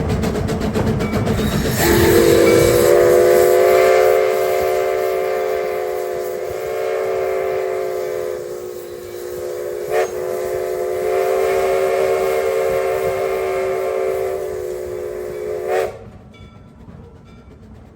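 Steam locomotive whistle sounding one long blast. It starts about two seconds in, softens partway through, swells again, and cuts off suddenly near the end.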